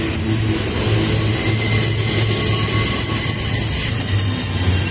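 Freight train cars rolling past close by: a loud steady rumble of steel wheels on rail, with thin high squealing tones from the wheels. The high hiss drops back about four seconds in.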